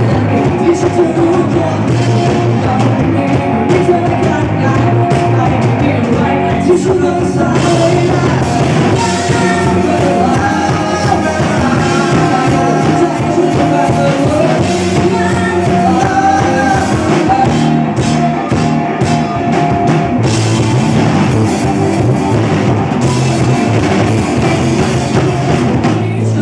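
A rock band playing a song, with a singer over the band.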